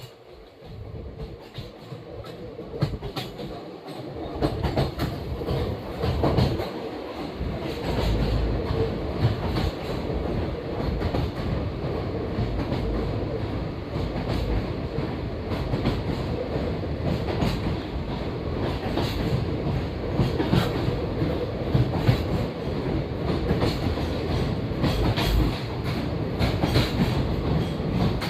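Passenger train running on the rails, its wheels clattering and knocking over the joints with a steady rumble. The sound grows over the first few seconds as the train gathers speed or draws closer, then holds steady.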